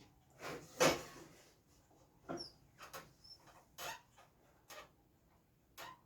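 Pencil marking a cutting line across a 2x4 against a square: a series of short, scratchy strokes at uneven intervals, with a couple of faint high squeaks.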